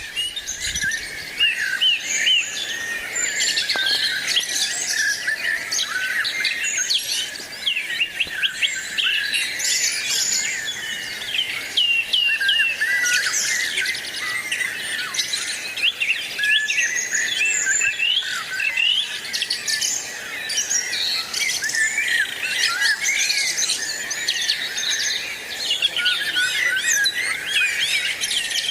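A flock of small birds chirping continuously, many short calls and trills overlapping at once.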